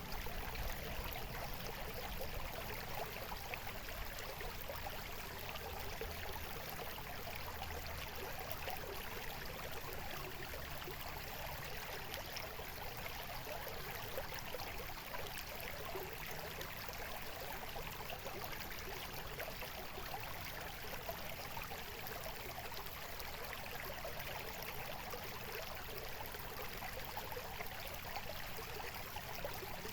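Stream water babbling steadily, an even, unbroken rush of water.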